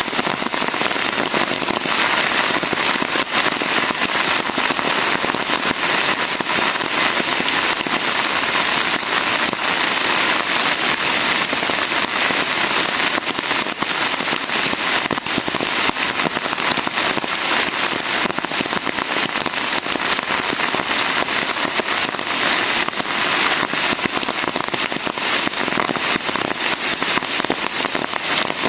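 Steady rain falling, a dense, even patter of drops with many sharp crackling drop impacts throughout.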